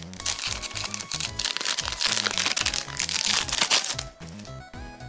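Foil wrapper of a Yu-Gi-Oh! booster pack crinkling as it is torn open and handled, over background music. The crinkling stops about four seconds in, leaving the music.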